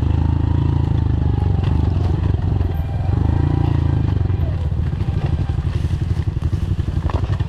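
Honda four-stroke single-cylinder dirt bike being ridden on trail, the engine revving up and down with the throttle. From about five seconds in it drops to a lower, choppier putter.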